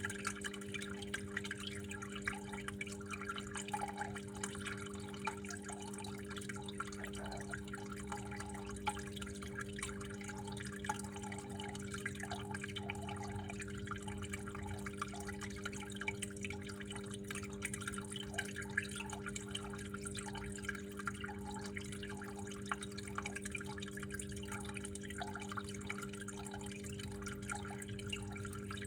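Water flowing and dripping steadily in many small irregular drops and spatters, over a steady low hum.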